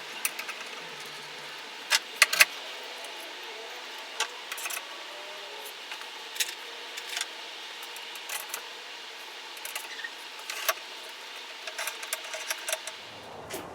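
Sharp metallic clicks and clinks of metal tools and parts being handled, scattered irregularly over a steady faint hum, with a loud double clink about two seconds in.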